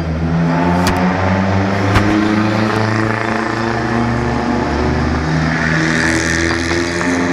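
Vintage open-top sports car's engine running at low, steady revs as the car drives slowly past. There are two sharp clicks about one and two seconds in.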